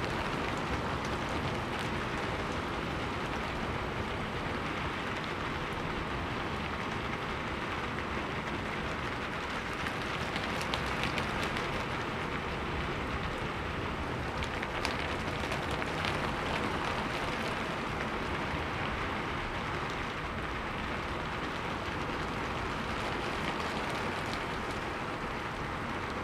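Rain falling steadily, an even hiss with a few brief sharper crackles of drops around ten to eleven seconds and again near fifteen seconds in.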